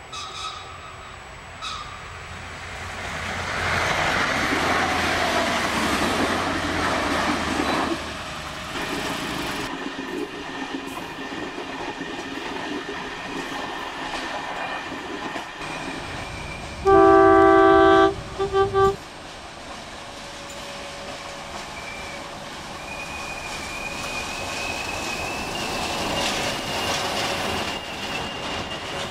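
Trains running on the rails, with a louder passing rush early on and a train horn sounding about two-thirds of the way in: one long blast, then a short one.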